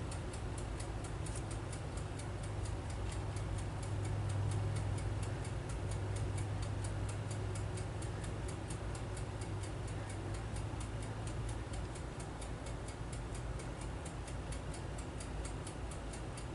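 Rapid, even ticking, several ticks a second, over a steady low hum.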